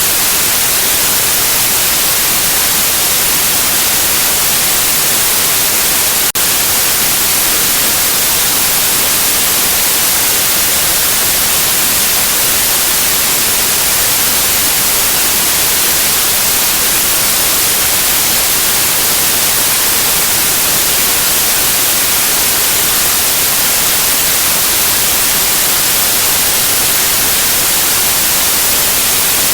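Continuous white noise: a steady, loud hiss, brightest in the treble, with a single brief glitch about six seconds in.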